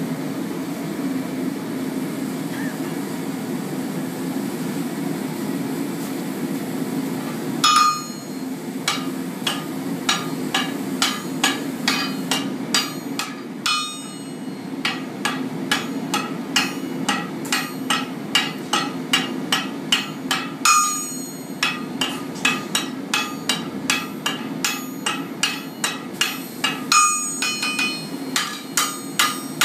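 Hand forging at the anvil: hammer and striker's sledge blows on hot steel, ringing off the anvil. They come about two a second, starting about eight seconds in after a stretch of steady background rushing noise, with a few heavier blows standing out.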